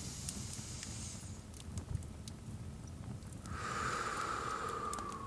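A person's slow deep breath: an inhale through the nose that ends about a second in, then, about three and a half seconds in, a long breathy exhale through the mouth that falls slightly in pitch. A fireplace crackles underneath with scattered pops and a low rumble.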